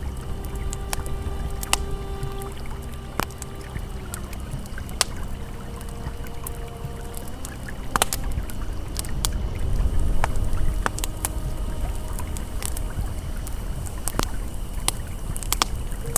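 Campfire crackling with irregular sharp pops over the steady rush of a flowing river, with soft sustained ambient music notes held underneath.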